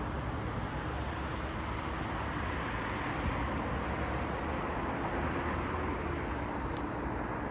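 Steady city road traffic: a continuous hum of tyres and engines from passing cars. A faint engine note rises slightly in pitch between about four and six seconds in.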